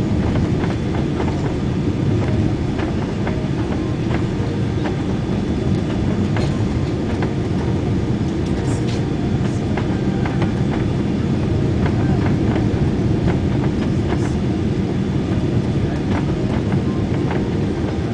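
Steady, heavy cabin rumble inside a Boeing 777-200 moving along the ground after landing, with small rattles and ticks from the cabin fittings.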